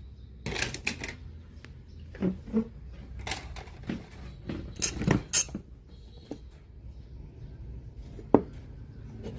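About ten irregular clicks and knocks of small hard objects being handled, over a steady low hum. One sharp, loudest click comes near the end.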